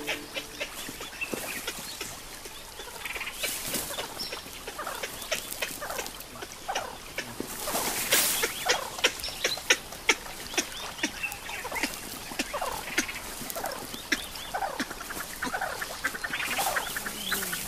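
Many short animal calls, chirps and squeals overlapping one another, with scattered sharp clicks.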